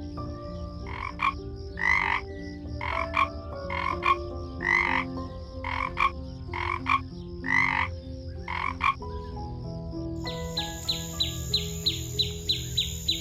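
An animal giving about ten short calls in a row, under a second apart, over soft background music. About ten seconds in, the sound changes to a fast, even series of high chirps, about four a second.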